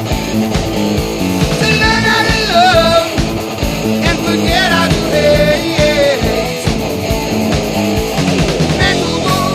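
Background rock music with electric guitar, bass and drums, with bending lead lines over a steady beat.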